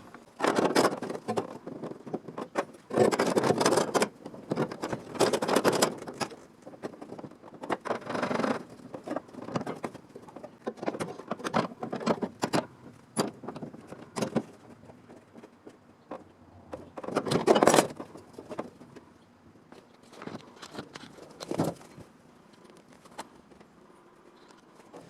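Hand work on a small sheet-steel panel: irregular scraping, rustling and clinks in uneven bursts, with a louder stretch about seventeen seconds in.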